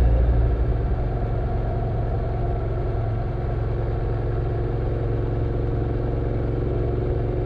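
Motorcycle engine running steadily at a constant pace, a low even rumble with no revving.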